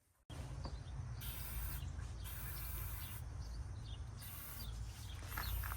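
Outdoor ambience: high-pitched insect buzzing that comes and goes several times, over a steady low rumble.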